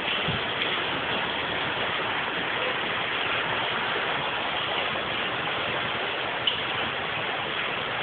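Heavy rain with hail pouring down in a storm: a steady, dense hiss, with one sharp click about six and a half seconds in.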